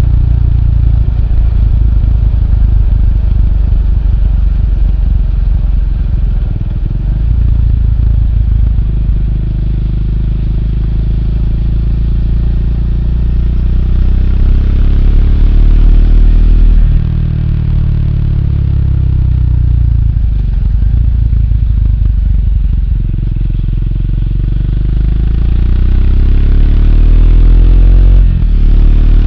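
Triumph Speed 400's single-cylinder engine running while riding, its pitch climbing steadily, then dropping suddenly at a gear change about two-thirds of the way in and climbing again, with another drop near the end.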